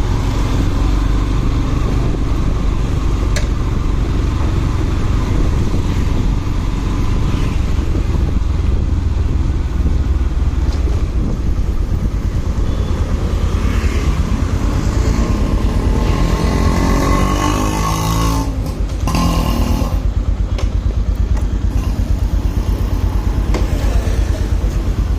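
Motorcycle engine running steadily on the move, with a brief dip in level and sliding pitch about three-quarters of the way through.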